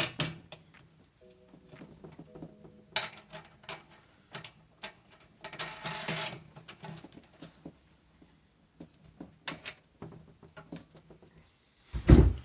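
Scattered clicks and metallic rattles of chainsaw mill parts being handled, with two longer rattling bursts and one heavy thump near the end.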